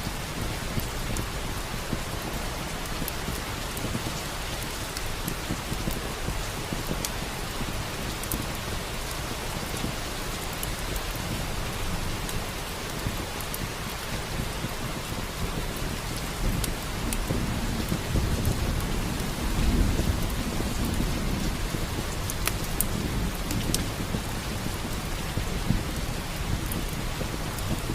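Steady heavy rain with a low rumble of thunder swelling and fading about two-thirds of the way through. Occasional sharp crackles of a wood fire sound over the rain.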